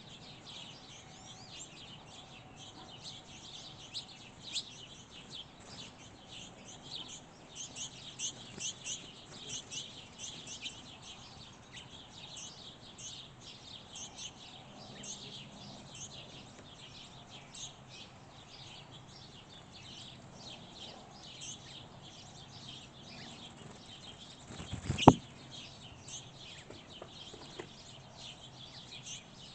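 Small birds chirping and twittering in many quick, high calls, busiest in the first half. A single sharp knock about 25 seconds in is the loudest sound.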